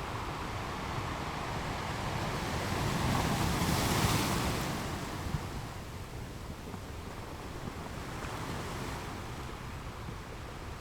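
Ocean waves breaking on a beach: the surf swells to a peak about four seconds in, then eases back to a steadier, quieter wash.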